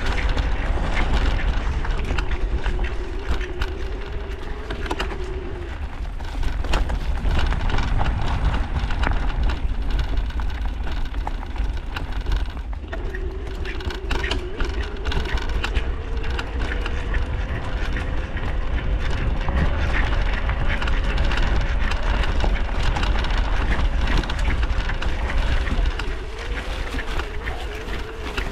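Vehicle engine running while driving along a road, over a steady low rumble of road and wind noise. The engine note dips and climbs a few times, with a break about halfway through.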